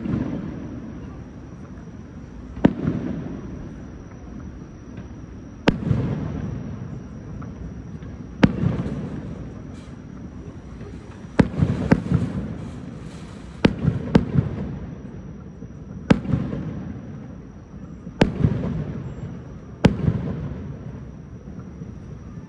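Aerial firework shells bursting in the sky, a sharp bang every two to three seconds, each followed by a rolling echo. Around the middle the bangs come closer together, with crackling.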